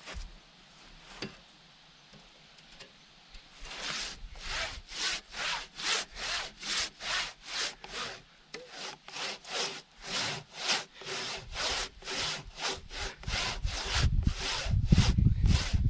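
Handsaw rip-cutting lengthwise through a log, in even back-and-forth strokes about two a second that begin a few seconds in after a quiet start. A low rumble joins the strokes near the end.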